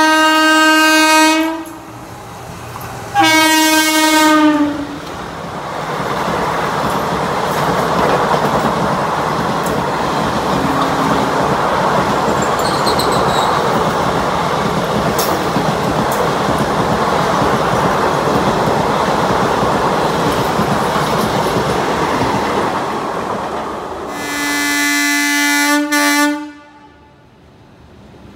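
Train horn sounding two blasts, each under two seconds, then a train running past with a steady rumble and rattle of wheels on rail for about twenty seconds, then one more horn blast near the end.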